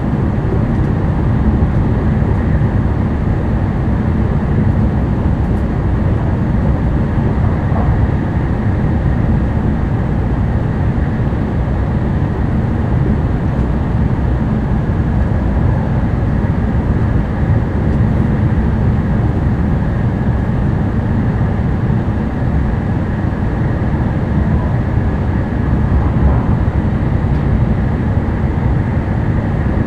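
Running noise inside the passenger cabin of an N700-series Tokaido Shinkansen train: a steady, loud rumble with a faint high tone over it.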